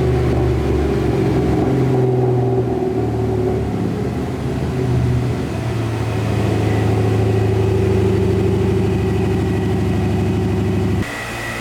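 2011 Cadillac CTS-V's supercharged V8 running under load on a chassis dyno while its fueling is tuned, holding steady engine speeds that shift to a new pitch about halfway through. The engine sound cuts off abruptly near the end, leaving the steady hum of the dyno's cooling fan.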